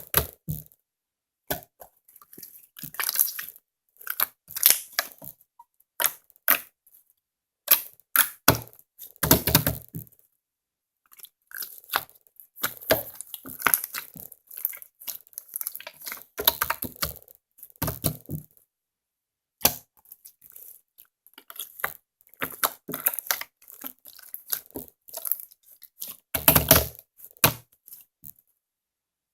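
Slime being squeezed and stretched by hand, making irregular crisp crackles and pops in short bursts with silent gaps between them.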